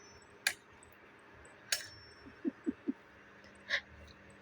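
Machete chopping into a hard pau-ferro log: three sharp blows about a second or two apart, the second ringing briefly and metallically.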